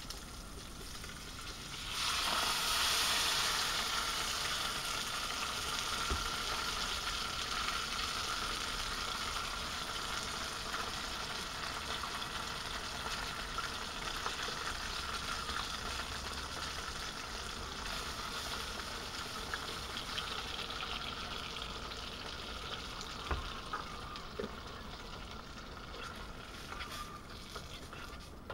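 Sliced ham sausage frying in a small pan on a gas cooker, sizzling steadily. About two seconds in the sizzle jumps louder as the canned beans in sauce go into the hot pan, then it settles and eases off near the end, with a few light knocks of utensils on the pan.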